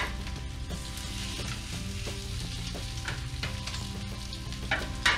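Breaded bluefish cakes frying in oil in a pan, sizzling steadily, with two short louder bursts near the end.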